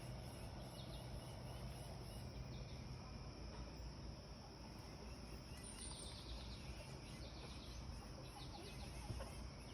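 Quiet outdoor ambience: a steady low rumble with faint, short bird calls now and then, the clearest about six seconds in.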